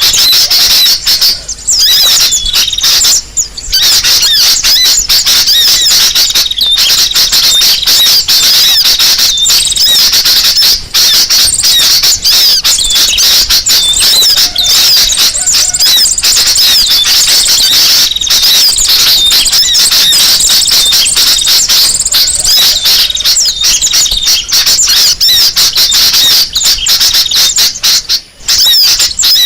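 Bird-lure recording of many small birds chattering noisily: dense, high-pitched chirps and twitters overlapping without pause, with a few brief gaps. A 'noisy birds' lure call of the kind played to draw wild birds close.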